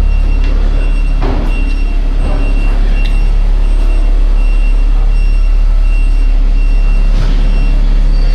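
A heavy vehicle's engine running with a steady low rumble, over a short high-pitched beep repeating about twice a second, like a reversing alarm.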